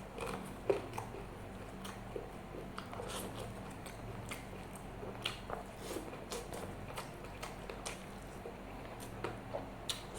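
Close-miked eating sounds: a person chewing a mouthful of nasi Padang rice, chicken and martabak soaked in curry gravy, with scattered wet smacks and clicks, over a low steady hum.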